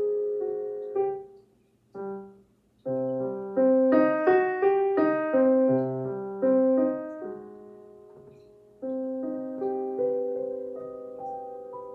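Solo piano playing a slow piece in chords and short phrases, breaking off briefly near the start, then settling on a held chord that fades away over the last few seconds.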